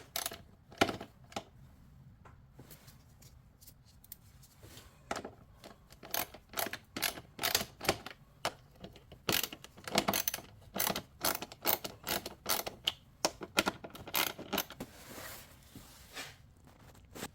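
Hand ratchet clicking in short runs of back-and-forth strokes with metallic tool clinks, as fasteners on a car's engine air box are loosened. The clicks are sparse at first and come in quick runs of several a second from about five seconds in.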